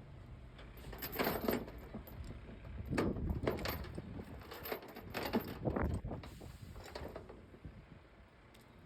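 Metal chain links rattling and clinking in several bursts over about six seconds as a load-securing chain is handled on the truck.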